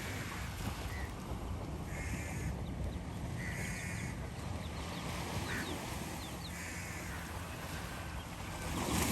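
Birds calling: about four separate harsh calls, each roughly half a second long, with faint short chirps between them, over a steady low background noise.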